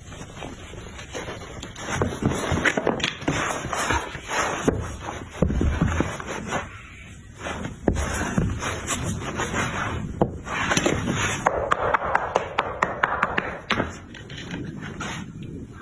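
Irregular scraping and knocking of hard objects, with frequent short clicks and a few louder knocks and no steady rhythm.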